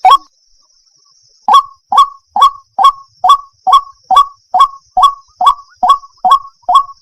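White-breasted waterhen (ruak-ruak) calling: one note, a pause of about a second and a half, then a rapid, even series of short repeated notes at a little over two a second. It is a recorded call of the kind used to lure the birds, tagged as a female calling a male.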